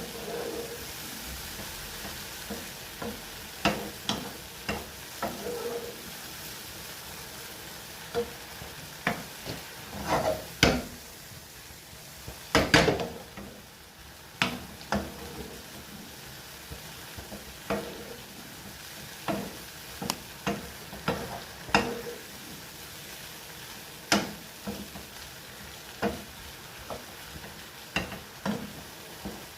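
Food sizzling in oil in a frying pan, with a cooking utensil stirring it and knocking against the pan every second or two. The loudest clatter comes about halfway through.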